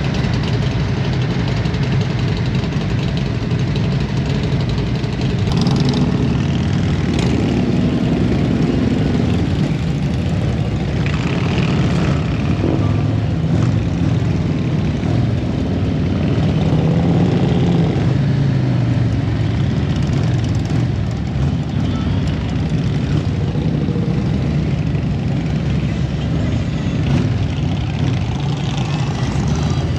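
Motorcycle engines running steadily in a large group ride, with a low engine note that swells and eases a little.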